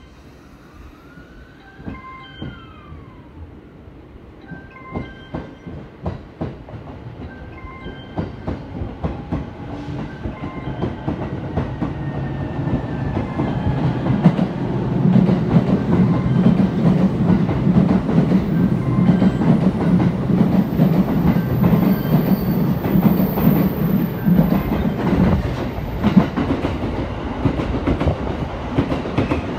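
E261 series electric limited-express train approaching and running past, its rumble swelling over several seconds to a loud steady run with wheels clacking over the rail joints. A short chime sounds a few times in the first several seconds.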